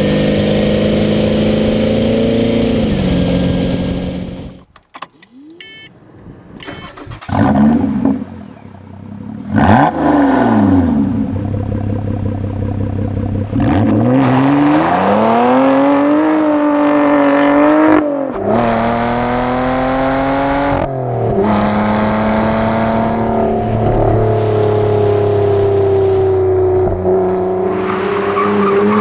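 Performance car engines revving and idling, heard in several spliced clips: a steady idle, a sudden drop to a quieter stretch about five seconds in, then repeated revs whose pitch climbs and falls, settling into a steady idle near the end.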